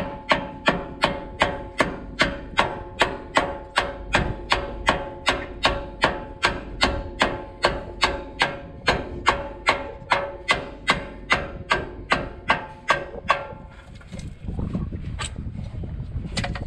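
Steady hammer blows on metal, about two and a half a second, each with a short ringing tone; they stop about thirteen seconds in, and a couple of lighter clicks follow.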